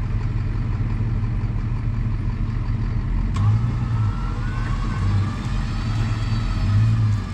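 Vehicle engine running with a steady low rumble that swells a few times in the second half. About three and a half seconds in there is a click, followed by a faint high whine that wavers and rises slowly.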